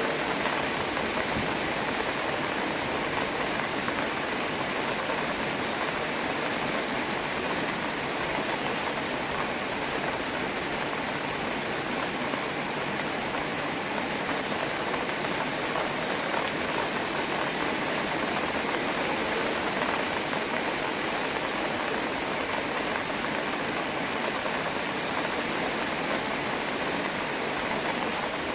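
Steady rain falling, an even hiss with no breaks or single events standing out.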